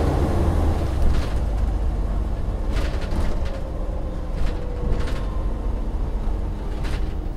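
Volvo Olympian double-decker bus's diesel engine running with a deep rumble and a whine that falls slowly in pitch through the middle, with several sharp knocks or rattles.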